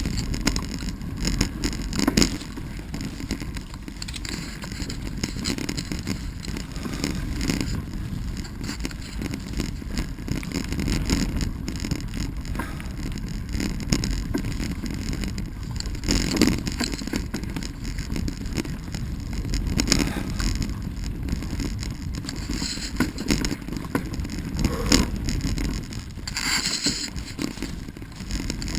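Wheels rolling over a rough, root-strewn dirt trail: a steady low rumble with scattered knocks and rattles as the wheels hit roots.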